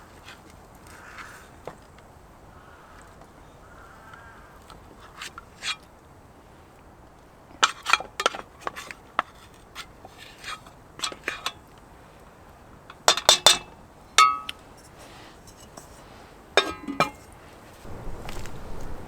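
Camp cookware and utensils handled, with scattered clinks and knocks in small clusters. One knock leaves a brief metallic ring.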